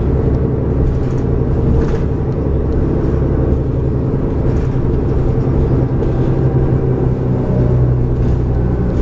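Cummins ISL inline-six diesel of a New Flyer D40LF transit bus running steadily, heard from inside the passenger cabin as a constant low engine hum and rumble.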